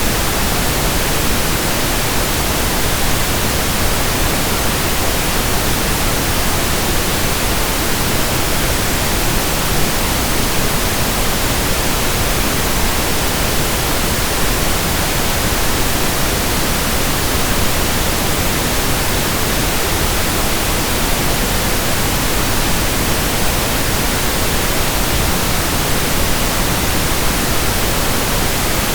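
Steady pink noise: an even, unbroken hiss across all pitches that holds a constant level.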